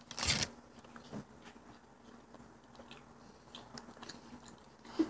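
People biting into and chewing hard-shelled grape gumballs: one louder crunch just after the start, then faint scattered clicks of chewing.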